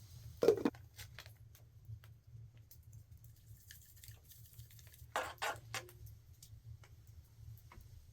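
A person eating quietly: scattered small clicks and rustles of a utensil and food, with a short louder sound about half a second in and another cluster about five seconds in.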